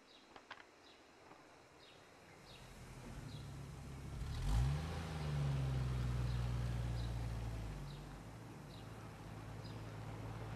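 Car engine starts with a quick rise in revs about halfway through, then runs steadily and eases off as the car pulls away. Faint bird chirps sound in the background.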